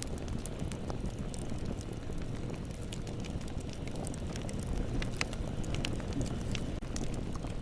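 Bonfire burning with a steady low rumble and scattered sharp crackles and pops from the burning wood, a little busier about five seconds in.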